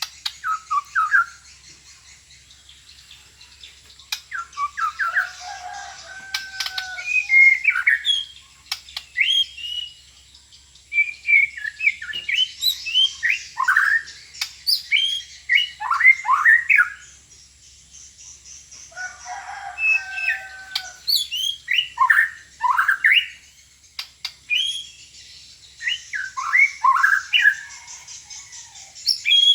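White-rumped shama (murai batu) singing: bursts of varied whistles, fast rising and falling notes and chatter, separated by short pauses.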